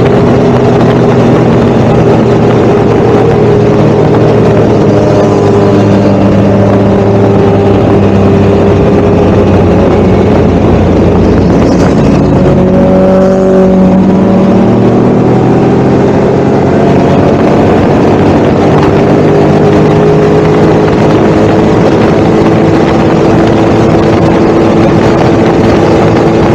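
Motorcycle engine running on the road, loud and continuous, its pitch drifting up and down with the throttle and gliding noticeably about halfway through.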